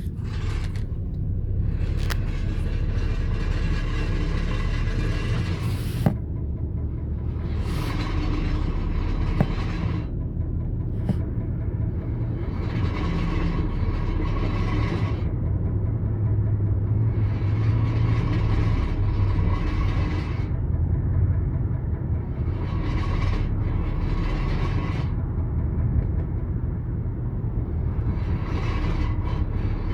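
A car's steady low rumble with rattling and light thumping that come when the brakes are applied while in drive, felt as a vibration from the driver's front side. The owner suspects a fault near the front brakes that is getting worse. Swells of higher noise come and go every few seconds, with a couple of sharp clicks.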